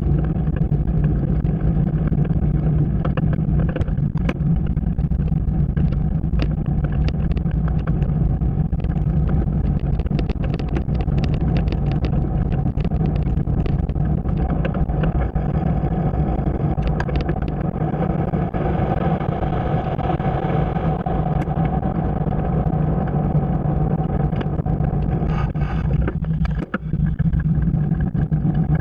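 Motorcycle engine running at a steady speed while riding, with a constant low hum that briefly drops away near the end.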